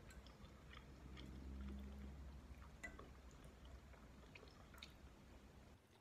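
Quiet, close-miked chewing of instant noodles, with scattered small clicks and ticks as a metal fork stirs and lifts noodles in a glass bowl.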